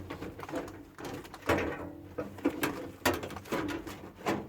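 Irregular clicks and knocks from hard parts of a microwave oven being handled, about half a dozen in all.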